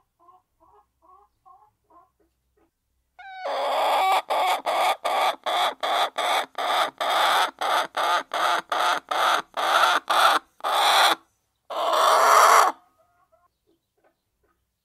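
Hens clucking softly, then a loud cackle about three seconds in: a fast run of repeated calls, about two and a half a second, ending in one longer call near the end.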